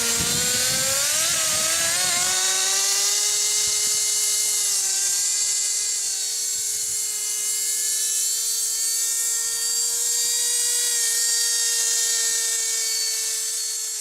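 Small two-stroke nitro glow engine (Kyosho GX 15) of an RC Blizzard snowcat running at high revs, a steady high-pitched whine. It wavers briefly in pitch a second or two in, then holds even and starts to fade near the end.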